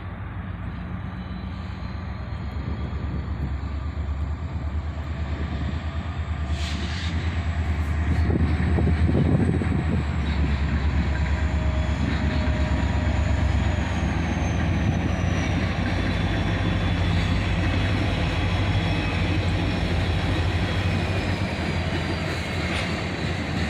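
EMD GP40 diesel locomotive's 16-cylinder two-stroke engine rumbling as it comes by. It grows louder over about the first nine seconds, then holds steady.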